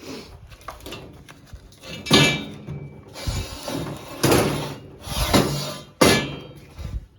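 Steel parts being handled and knocked together: a few separate metallic clanks with short ringing, the loudest about two seconds in and three more between four and six seconds, with scraping in between.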